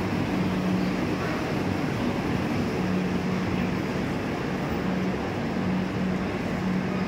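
Steady noise of a train at a railway station, with a low hum that comes and goes.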